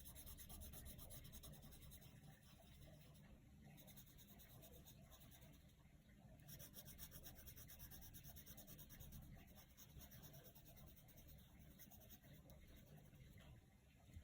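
Coloured pencil shading on paper: faint, quick back-and-forth scratchy strokes that ease off for a few seconds a little way in, then pick up again.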